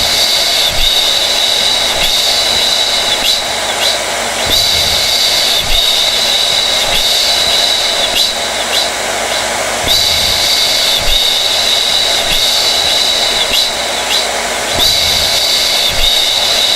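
Hair dryer running steadily, an even rushing blow with a high whine over it, its tone changing slightly about every five seconds.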